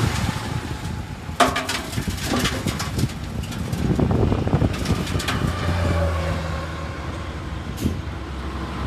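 Heavy earthmoving machinery running with a low diesel rumble, with several sharp clanks and knocks in the first half. The engine settles into a steadier low drone after about six seconds.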